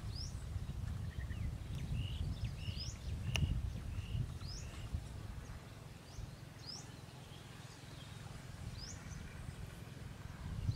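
Small birds calling: a short rising chirp repeated about every two seconds, with a few other short calls in the first half, over a low outdoor rumble that eases off midway. A single sharp click sounds about three and a half seconds in.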